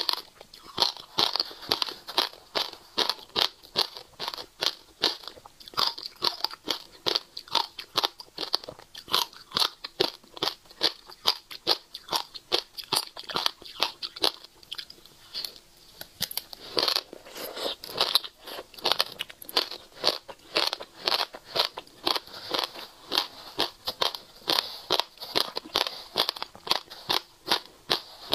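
Close-miked crunching of passion fruit seeds being bitten and chewed: a steady run of sharp crunches, about three or four a second.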